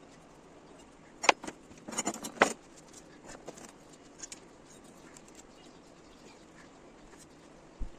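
A few sharp metallic clinks and knocks from steel vise parts being handled, the loudest about a second in and a cluster around two seconds in, followed by fainter ticks.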